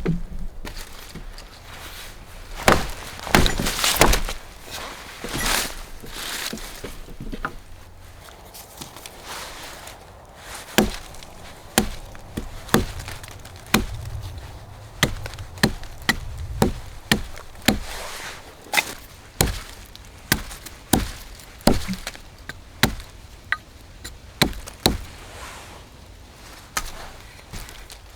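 Wood being chopped, sharp strikes of a blade into wood. A few irregular strikes come first, then a steady rhythm of a little more than one stroke a second.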